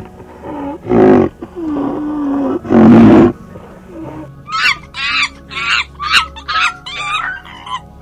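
Animal calls: two loud roaring calls with a lower, drawn-out moan between them, then a quick run of about seven or eight short, high squealing calls, roughly two a second.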